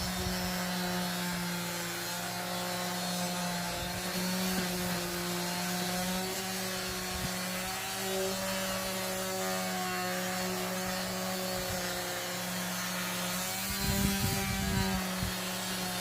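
Electric sander running against wood: a steady motor hum that wavers slightly in pitch over the hiss of sandpaper rubbing, with a louder rough scraping burst about fourteen seconds in.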